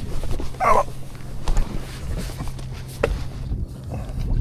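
Things being handled and rummaged through, with a few sharp clicks and knocks, over a low steady hum.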